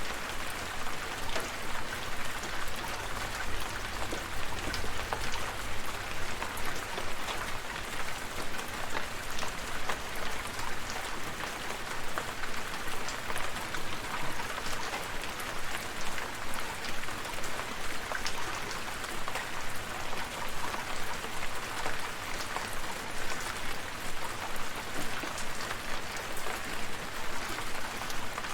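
Steady rain, a constant hiss of falling water with many separate drops ticking through it.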